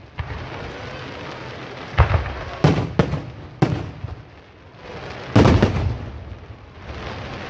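Fireworks bursting overhead: five sharp bangs with rumbling echoes, four of them close together around two to four seconds in, and the loudest a little over five seconds in.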